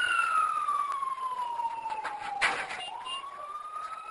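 Emergency vehicle siren wailing: one slow tone that falls over about two and a half seconds, then rises again, getting fainter. There is a brief burst of noise near the bottom of the fall.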